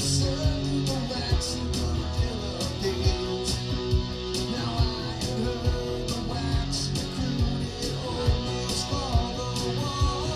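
Rock music played by a small band: strummed guitars over a steady drum beat, with no clear vocal line.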